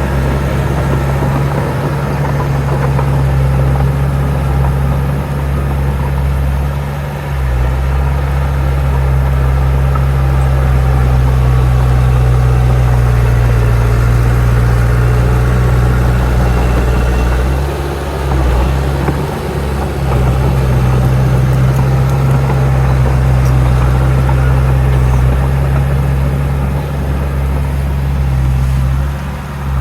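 Heavy diesel earthmoving machinery running steadily, with a strong low engine hum. The engine note dips briefly about seven seconds in, around eighteen seconds and again near the end, as the load changes.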